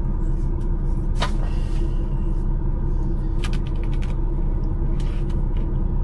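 Steady low rumble of a truck's engine running, with a few short crisp crunches over it, typical of kohlrabi being bitten and chewed.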